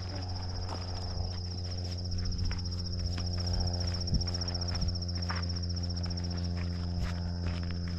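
Steady, high-pitched chorus of crickets, pulsing finely without pause, over footsteps on a path and a steady low hum.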